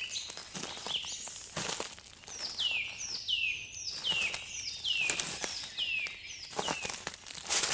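A songbird in a forest singing a run of about seven repeated notes, each sliding down in pitch, a little under one a second. Short crackling rustles sound throughout.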